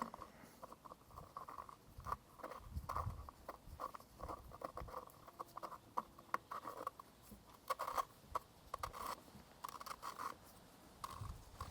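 Faint, irregular clicks, taps and short scrapes, as of hands handling tools and machine parts.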